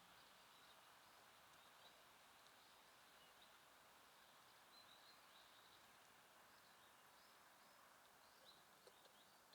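Faint, scattered short high chirps and calls of small songbirds over a steady outdoor hiss.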